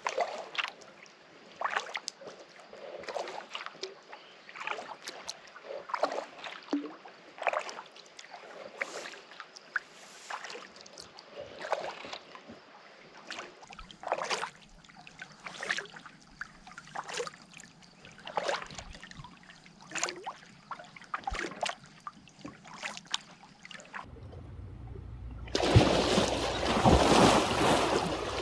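Kayak paddle blades dipping and splashing in calm lake water, a stroke about once a second. Near the end, a louder stretch of continuous rushing splashing water.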